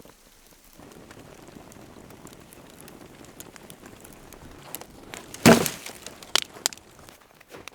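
Junk being cleared out, with a steady rustling hiss and a loud crash about five and a half seconds in, followed by a few sharper knocks.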